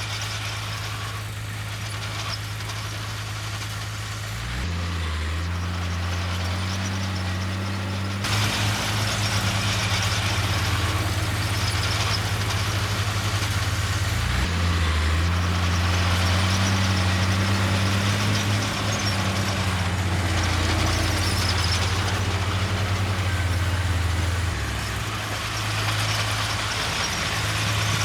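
Heavy diesel engines of earthmoving machines running, the engine note shifting several times: it rises about four seconds in, a broad rattling noise joins about eight seconds in, it dips briefly midway and it eases near the end.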